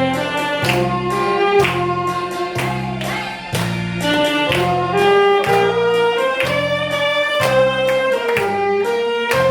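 Saxophone playing a slow song melody in sustained, held notes over a backing accompaniment with a steady, regularly pulsing bass.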